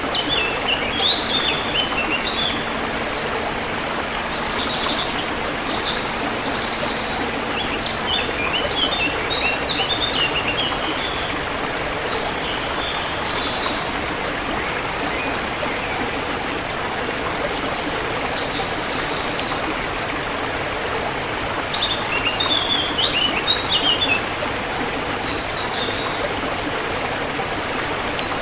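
A forest stream flowing with a steady rush, with songbirds chirping in short bursts of high notes every few seconds.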